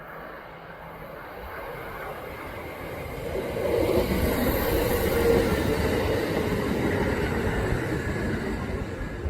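Kintetsu electric train approaching and passing, its wheel and track rumble building to its loudest about four to five seconds in, then slowly easing off.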